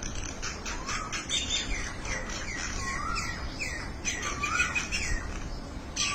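A flock of birds calling at once, with many short, overlapping calls repeating several times a second, some of them quick up-and-down swoops in pitch.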